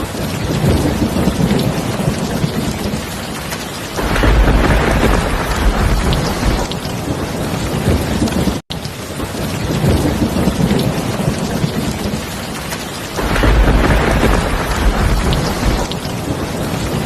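Heavy rain falling steadily, with thunder rumbling twice: once about four seconds in and again about thirteen seconds in. There is a momentary cut near the middle, after which the same rain-and-thunder pattern repeats.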